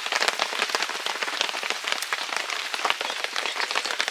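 Heavy rain falling: a dense, steady patter of drops striking close by.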